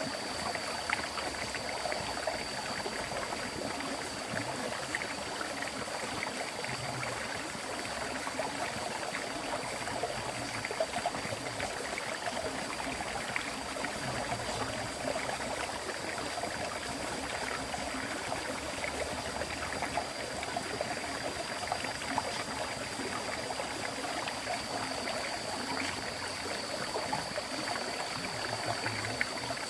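River water flowing continuously, a steady rushing babble with no breaks, with a thin steady high-pitched tone above it.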